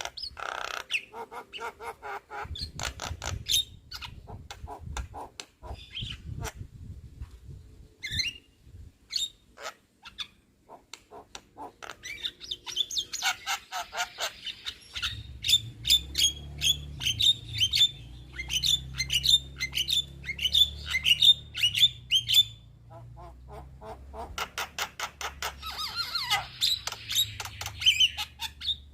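Young Javan myna (jalak kebo) chattering and squawking in a varied run of sharp clicks and harsh calls. In the middle it gives a fast series of repeated harsh notes lasting about ten seconds. A low hum runs underneath in the second half.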